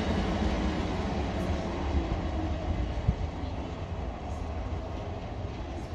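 South Western Railway Class 455 electric multiple unit running away along the line, its wheel-on-rail rumble fading as it recedes. A single sharp click comes about three seconds in.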